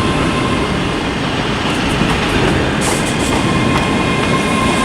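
ScotRail Class 385 electric multiple unit pulling into a terminus platform: steady running noise with a thin, steady whine, and a few brief high hisses about three seconds in.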